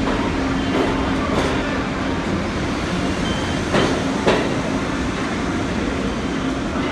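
New York City subway train running through the station, a steady rumble with a low hum, and two sharp clacks about half a second apart midway through.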